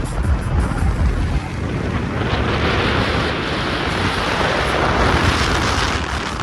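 A vehicle driving, with wind rushing on the microphone and a steady low rumble; the rushing hiss grows louder from about two seconds in.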